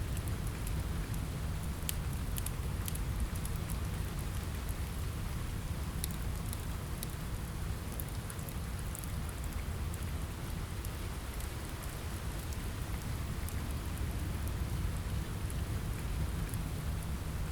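Steady rain on a window with a constant low rumble underneath, and scattered small crackles from a wood fire in a fireplace.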